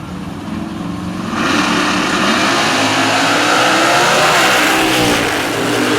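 Drag race car engines revving, then jumping to full power about a second and a half in and running loud and hard, the pitch wavering as the cars pull away.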